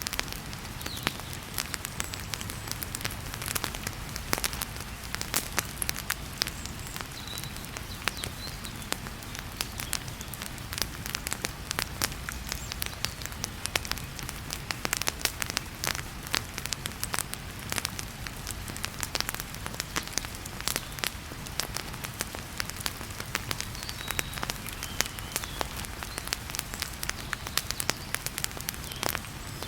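Wood fire crackling in a fireplace, with frequent sharp pops and snaps, over a steady hiss of heavy rain.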